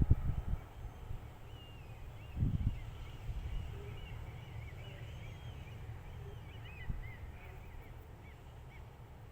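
Small birds chirping and twittering over a steady low background rumble, broken by short low-pitched thumps, loudest at the start and about two and a half seconds in, with a lighter one near seven seconds.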